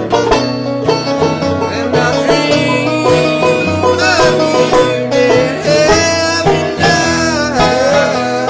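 Banjo and acoustic guitar picking a bluegrass tune together. A wavering higher-pitched line rises over the picking about halfway through.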